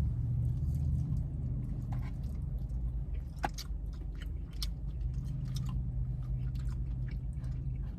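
A person chewing chicken wings close to the microphone, with many short clicks of the mouth scattered throughout, over a steady low hum.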